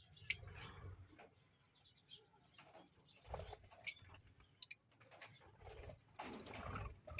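Lovebirds giving scattered short, sharp chirps, a few times, with stretches of low muffled noise between them.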